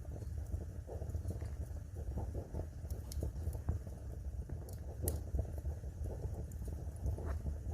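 Wood fire crackling: scattered sharp pops and snaps from burning logs over a steady low rumble, with the strongest snap about five seconds in.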